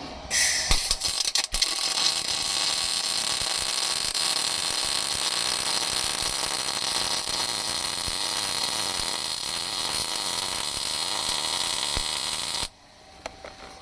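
Welding arc crackling steadily while a bead is run on a stripped adjustable lower control arm. It starts with a few sharp pops and cuts off abruptly near the end.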